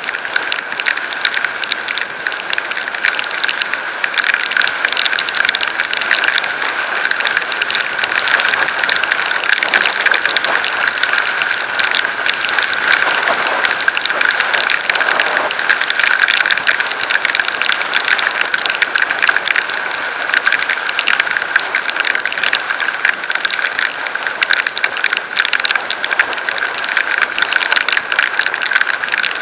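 Raindrops striking the camera at riding speed: a dense, steady crackle over rushing noise.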